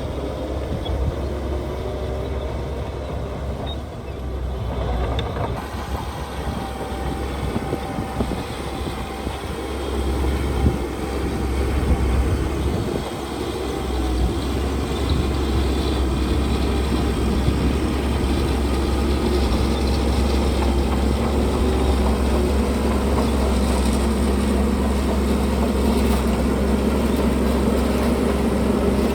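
Heavy diesel construction machinery running: a steady low engine rumble that grows louder about ten seconds in and holds steady through the second half.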